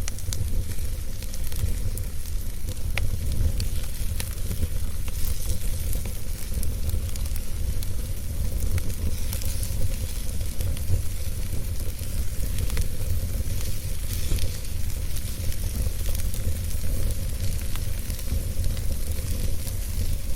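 Wood fire burning, with a steady low roar and hiss and frequent small crackles and pops scattered throughout.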